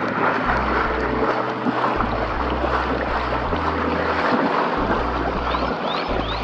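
Steady rushing of fast-moving river water around the tubes, under lofi background music with slow stepping bass notes.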